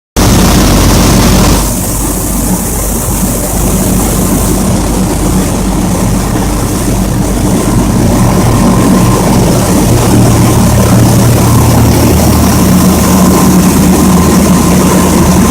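Rice milling machinery running loudly and steadily, with a constant low mechanical drone. A hissing layer drops away about two seconds in, and the pitch of the drone shifts about ten seconds in.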